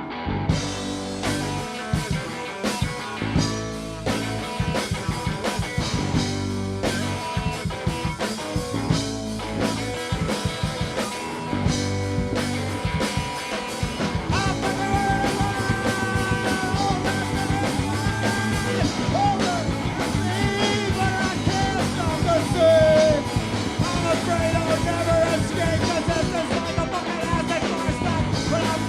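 Live rock band playing, with drums and electric guitar. About halfway in, a wavering high melodic line comes in over the band.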